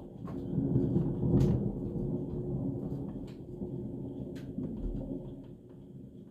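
Rolling thunder: a deep rumble swells about a second in and slowly fades away over the next few seconds. A few sharp taps sound on top of it.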